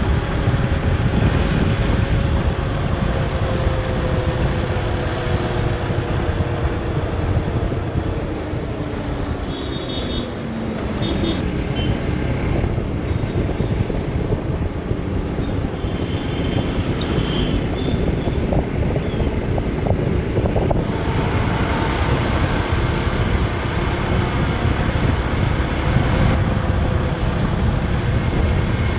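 Motorcycle being ridden, its engine running under heavy wind rush on the microphone. The engine note drops steadily over the first ten seconds or so as the bike slows.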